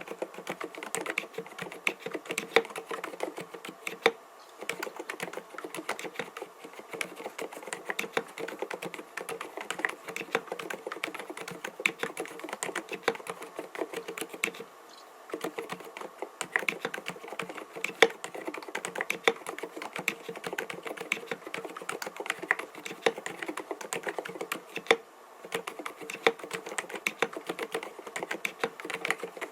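Typing on an mStone Groove T 87A mechanical keyboard with silent (저소음) Milky linear switches, 45 g: a fast, continuous run of soft keystrokes with a few brief pauses, about 4, 15 and 25 seconds in.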